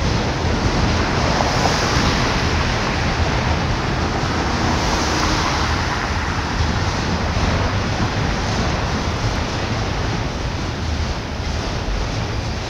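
Steady rushing noise of a long autorack freight train rolling past, mixed with wind buffeting the microphone. A passing car on the road swells the noise briefly about five seconds in.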